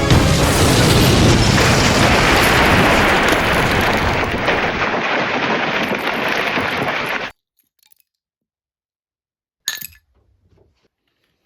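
An explosion with crashing, breaking debris: a loud noisy blast that goes on for about seven seconds and then cuts off suddenly. A single short, sharp crack follows about two seconds later.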